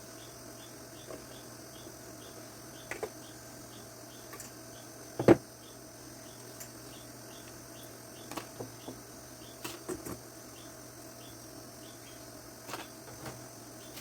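Scattered light clicks and knocks of a screwdriver and plastic fan parts being handled while the fan's grille is taken off, with one sharper knock about five seconds in. Behind them, a faint high chirp repeats steadily a few times a second.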